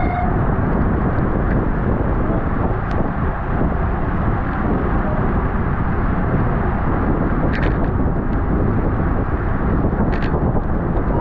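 Steady wind noise rushing over the microphone of a bicycle racer at race speed, a loud, deep, even rumble. Short sharp clicks or knocks sound twice in the second half.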